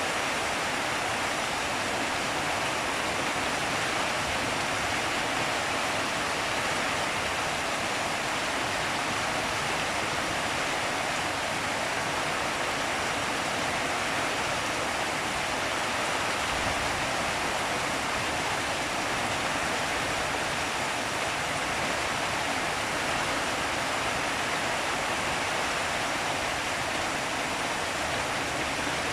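Rain falling steadily, an even hiss without breaks or single loud drops.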